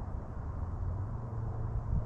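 Wind buffeting the microphone: a continuous, unsteady low rumble with gusty swells.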